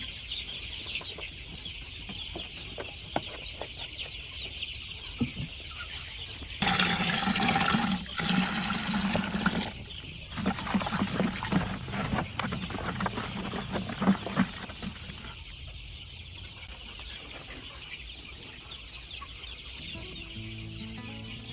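Chickens clucking, over a steady high background hiss. In the middle a loud rushing noise runs for about three seconds, followed by several seconds of irregular clattering and knocks.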